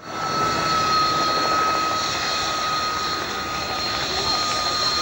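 Aircraft engine noise, a steady rush with a thin high whine that falls very slightly, starting abruptly out of silence.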